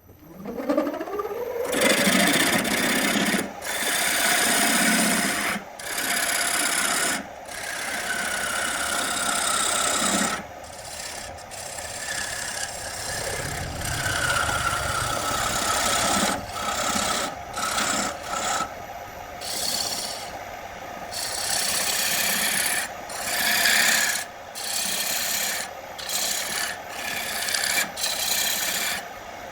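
A power tool spins up with a rising whine, then is worked against wood in repeated rasping passes that stop and start every few seconds, shaping or sanding the piece.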